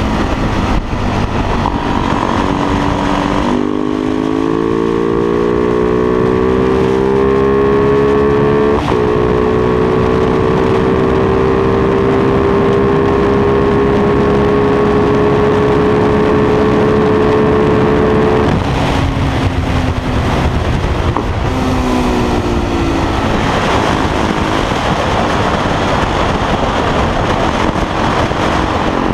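Motorcycle engine running on the road while riding, its pitch rising slowly under a long pull for about fifteen seconds before the throttle closes. It picks up briefly again, then wind and road noise cover it until it pulls again near the end.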